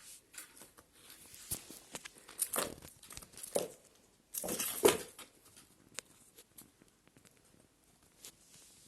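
Irregular rustling and crinkling with scattered sharp taps and scratches, loudest in a half-second scuffle about four and a half seconds in.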